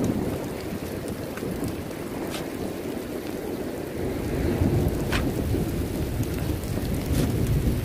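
Rain falling in a thunderstorm, with a low rumble that swells about four seconds in and again near the end, and a few sharp ticks scattered through.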